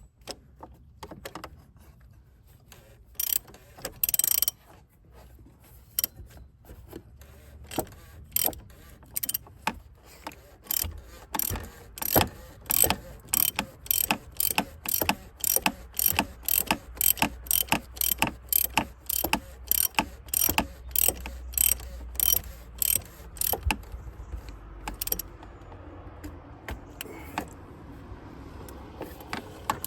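Ratchet wrench clicking as a fastener is worked: a few scattered clicks, then a steady run of about two clicks a second.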